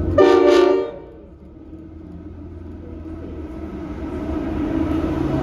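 Locomotive horn giving one short blast about a split second in, followed by the low rumble of a passing train.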